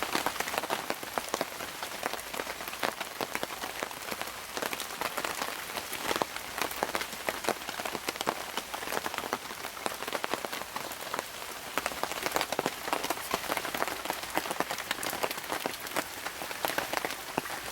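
Light rain falling steadily, a dense patter of many individual drops.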